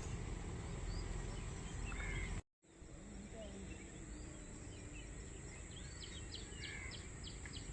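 Outdoor ambience: a steady low rumble and hiss, with faint scattered bird chirps and a quick series of short high chirps near the end. The sound drops out completely for a moment about two and a half seconds in.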